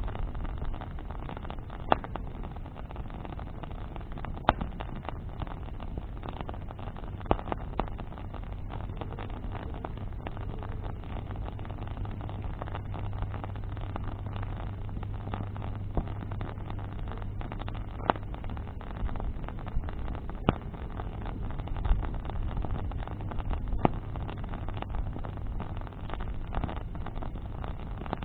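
Bonfire of branches burning: a steady low rumble with sharp pops of burning wood every few seconds.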